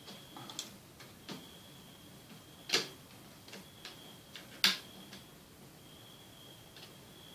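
Small clicks and taps of a netbook's plastic and metal parts being handled during reassembly, with two sharper clicks about two seconds apart. A faint high-pitched whine comes and goes.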